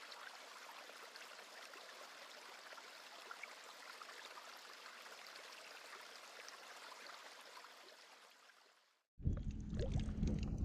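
Faint trickling and lapping of water, fading out about eight seconds in. After a moment of silence, a much louder low rumble cuts in near the end.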